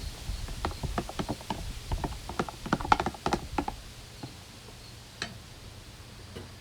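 A quick, irregular run of light clicks and knocks lasting about three seconds, then quieter, with one more click near the end.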